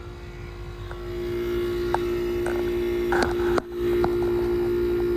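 Rotary compressor of a Friedrich ductless air conditioner's outdoor unit running just after start-up, a steady hum that grows louder over the first second and then holds. The speaker thinks the unit dates from 2004.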